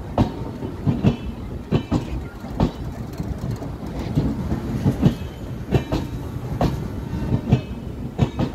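Passenger train coaches of the Gomti Express rolling past along the platform, their wheels clacking over the track about once a second above a steady rumble.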